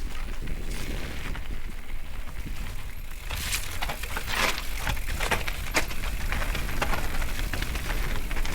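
Mountain bike riding over a rough trail: wind buffeting the microphone with a steady low rumble, and from about three seconds in a run of irregular crackles, knocks and rattles from the bike and the ground.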